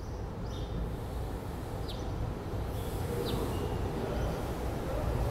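Low, steady rumble of a SEPTA regional rail train approaching the platform, growing a little louder from about halfway through. Two short high chirps come about two and three seconds in.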